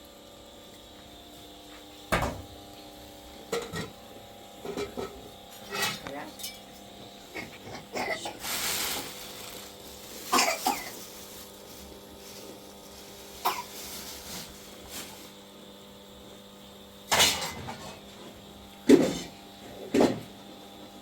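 Scattered knocks and clatter, about a dozen irregular sharp hits with the loudest near the end, over a faint steady hum, with a few short vocal sounds.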